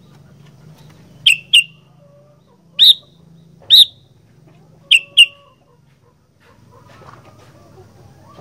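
Sooty-headed bulbul (kutilang) giving short, sharp, loud calls: a quick pair, two single notes, then another quick pair, over a low steady hum. It falls quiet from about six seconds in.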